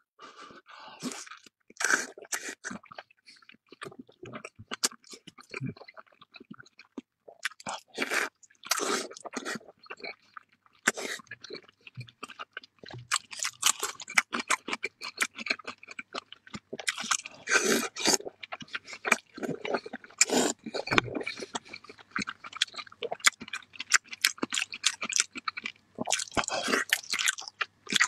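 Close-miked chewing and biting of braised pork belly (hong shao rou): a dense, irregular run of short mouth clicks with a few brief pauses.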